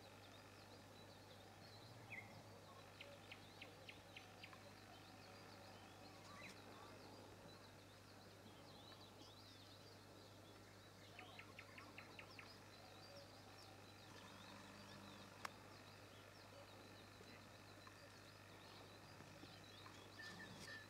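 Near silence, with faint scattered bird chirps, two quick runs of ticking calls and a low steady hum.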